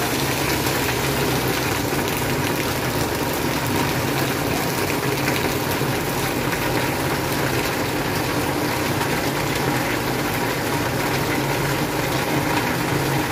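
Heavy rain and flowing floodwater: a steady, even rushing wash of water, with a low steady hum underneath.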